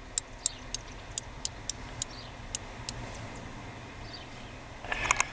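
Bat giving sharp high-pitched clicking chirps, quick and irregular, several a second at first and then sparser, as a disturbed mother bat with newborn pups does. A short rustling burst comes near the end.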